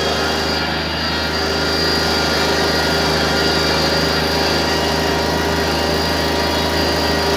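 Small tractor's engine running steadily, its pitch and level holding even.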